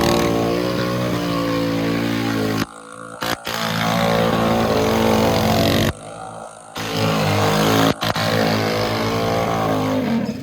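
Mini bike's small engine revving up and down under throttle, with two sudden drops in level where it falls away briefly before picking up again.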